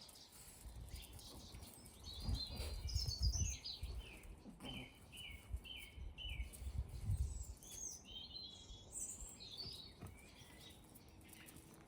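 Several songbirds singing and chirping, with a run of five evenly repeated notes about halfway through. Low rumbles come twice and are the loudest parts.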